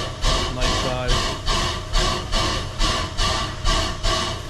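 Standing Shay geared steam locomotive making a rhythmic hissing puff about twice a second, with wavering squeaky tones over it.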